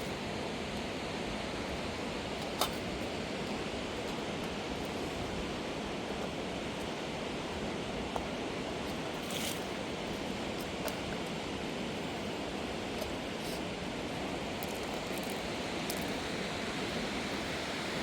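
Steady rush of a swollen river, with a few faint sharp clicks or knocks over it, the clearest about two and a half seconds in.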